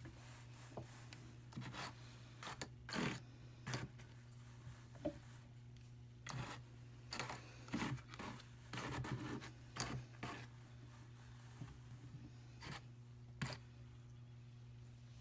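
Wool fibre scratching and tearing on the fine wire carding cloth of a hand-cranked drum carder, in short, irregular strokes.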